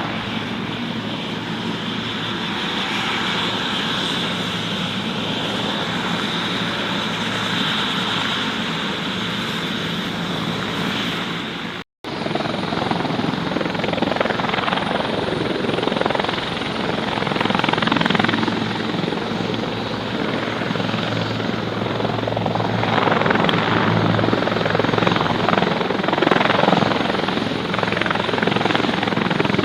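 Light aircraft running close by: a steady engine drone with propeller or rotor noise. It drops out for an instant about twelve seconds in, then returns with a stronger, pulsing beat.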